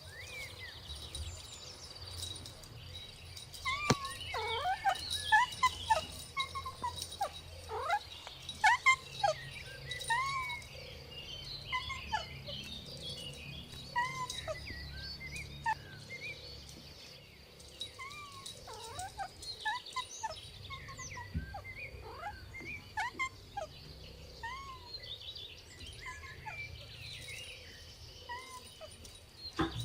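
A dense chorus of short bird chirps and calls, many of them quick rising-and-falling notes, busiest in the first third, over a steady high-pitched hum.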